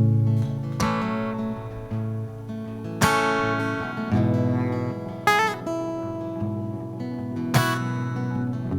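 Acoustic guitar strumming slow chords as a song intro. Each chord rings out for a second or two before the next stroke, and a short wavering melodic phrase comes in about five seconds in.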